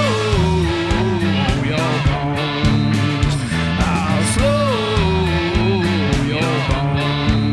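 Indie rock band playing: steady drum hits and bass notes under a lead line that slides up and down in pitch.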